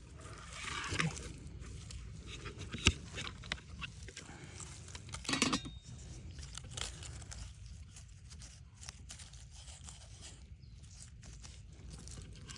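Scattered crinkling and clicking handling noises, with one sharp click about three seconds in and a louder rustle about five and a half seconds in, over a low steady rumble.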